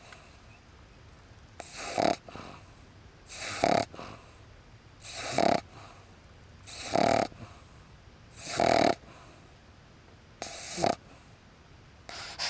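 Pug puppy snoring in its sleep: six short snores at an even pace, roughly one every second and a half to two seconds.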